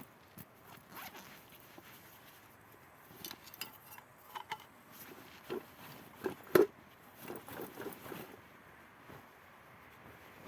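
Clothing rustling and zips being pulled while someone gets dressed for the outdoors, in a series of short scrapes with one sharper, louder one about six and a half seconds in.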